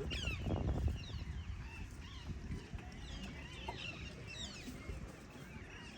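Birds chirping: many short, high calls scattered throughout, over a low rumble.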